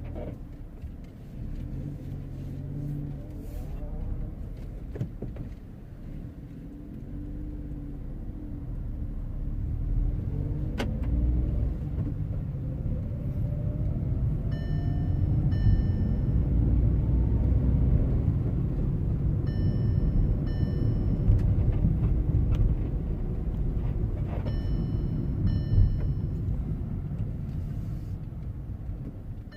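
Volkswagen up! being driven: low engine and road rumble that builds as the car pulls away, with a rising whine as it accelerates. From about halfway through, a short double electronic chime repeats roughly every five seconds.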